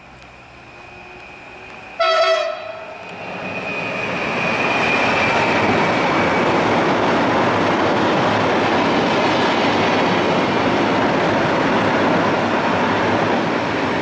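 An electric passenger train sounds one short horn blast about two seconds in. It then passes close by, and the noise of wheels on rails builds to a loud, steady rumble that eases off near the end. A thin high whine is heard as the train nears.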